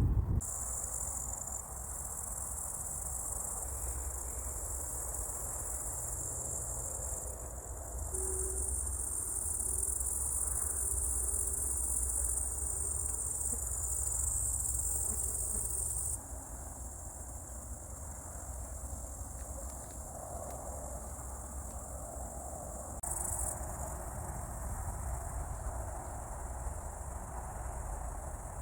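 Summer insects chirring, a steady, continuous high-pitched trill with a low rumble underneath. Its loudness jumps abruptly a few times.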